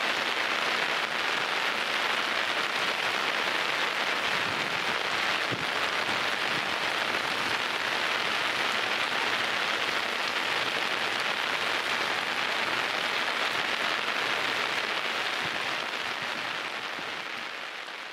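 Torrential rain falling steadily, a dense even hiss with no break, fading out near the end.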